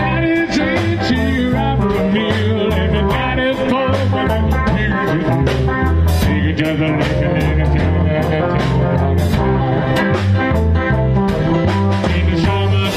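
Rock-blues band music with electric guitar, bass and drums keeping a steady beat.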